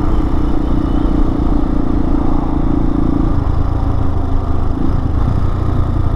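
Hawk 250 dual-sport motorcycle's single-cylinder engine running while riding. Its note drops about halfway through and stays lower for a few seconds.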